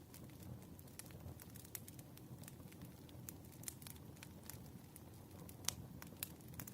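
Wood fire burning with a faint low rumble and frequent irregular crackles and pops, the sharpest pop a little before the end.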